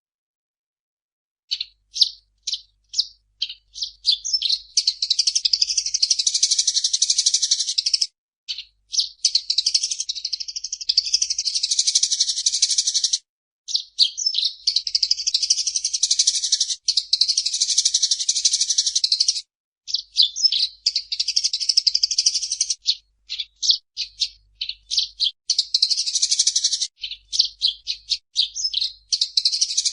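Eurasian tree sparrow chattering: starting about a second and a half in, separate high chirps quicken into long, dense bouts of rapid chatter lasting several seconds each, broken by short pauses.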